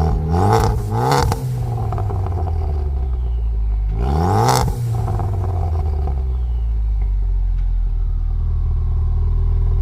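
Ford Focus ST Mk3 engine through a Milltek aftermarket exhaust, revved in two quick throttle blips, then a bigger rev about four seconds in, each falling straight back to a steady idle.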